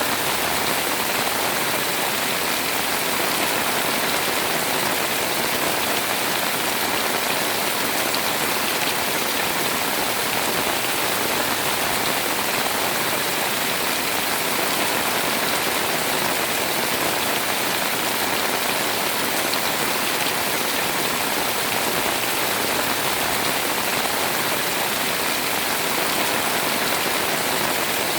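Heavy rain pouring steadily, a dense even hiss of drops falling on surfaces.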